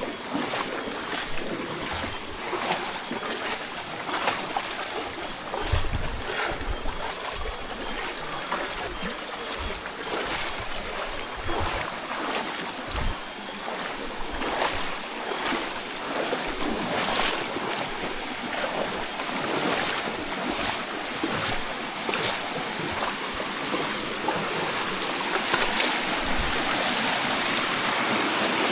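Rushing creek water as a steady hiss that grows a little louder and steadier near the end, with scattered irregular knocks and crunches and a few low thumps over it.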